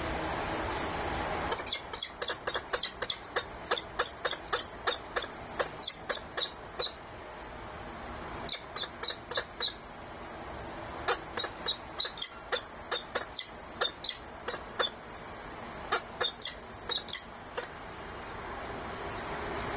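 A bird at its nest calling in a rapid series of short, sharp, high notes, about three to four a second, in four bouts with brief pauses between them. A steady background noise sits underneath and grows louder near the end.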